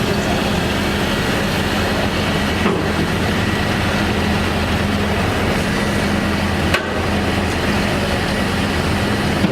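Street traffic noise with a steady low engine hum, broken by two brief clicks, one about three seconds in and one near seven seconds.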